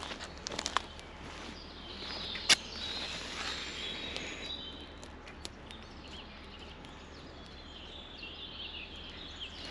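Birds calling, short chirps heard twice, midway and near the end. A few sharp clicks come in the first second, and one louder crack about two and a half seconds in.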